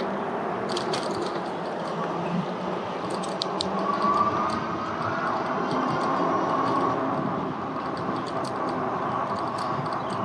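Steady road noise from riding an e-bike along a street: traffic and tyre rumble with scattered small clicks, and a whine that rises about four seconds in.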